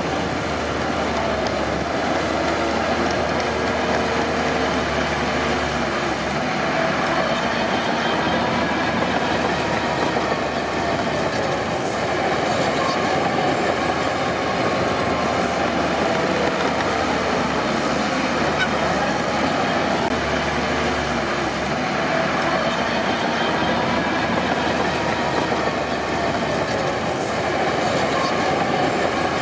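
Crawler bulldozer at work: its diesel engine runs steadily under the clatter of its steel tracks, with a wavering squeal.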